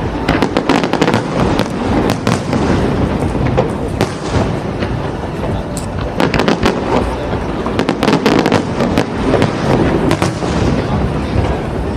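Aerial fireworks bursting in a dense, continuous run of bangs and crackling, several shells going off close together in clusters every second or two.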